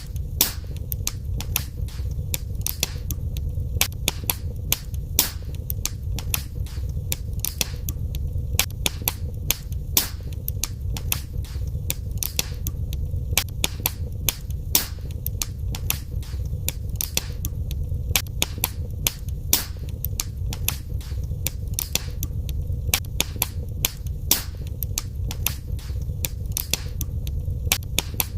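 Wood fire crackling in a fireplace, with frequent sharp pops and snaps over a steady low rumble of flame.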